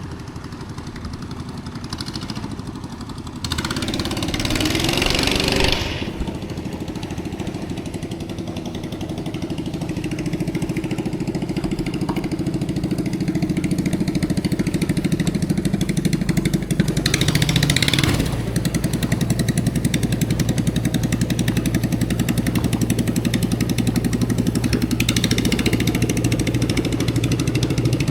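Fishing boat's engine running steadily, its hum growing louder about a third of the way in. Two brief rushes of hiss break in, one early and one past the middle.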